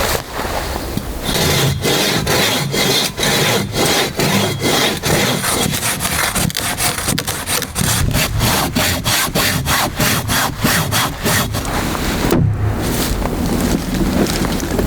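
Hand saw, likely a Silky Katanaboy folding saw, cutting through a log with quick, regular back-and-forth strokes, about two or three a second. The sawing pauses briefly near the end, then starts again.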